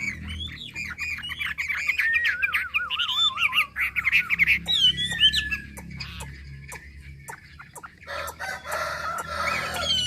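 Songbird singing a run of loud, varied whistled phrases with fast rising and falling notes and a quavering trill, thinning out to a few scattered notes after about five seconds. A rooster crows near the end.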